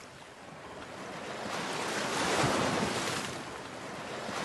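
Ocean waves washing in: a swell of surf noise that builds to a peak about halfway through, then eases off.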